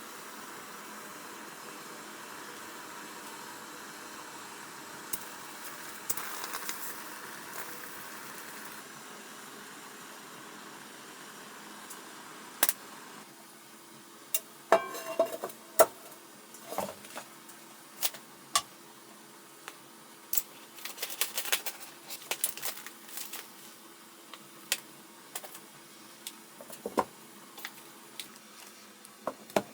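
A steady hiss, likely water still running from a small tap, stops about thirteen seconds in. Scattered clinks and light clatters follow, like dishes and utensils being handled.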